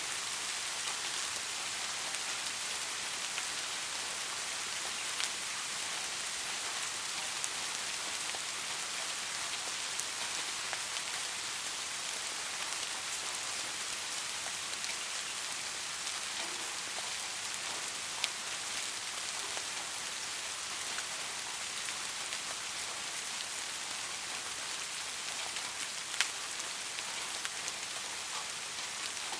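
Steady rain falling, an even hiss with individual drops ticking on a surface, a couple of louder drop hits late on.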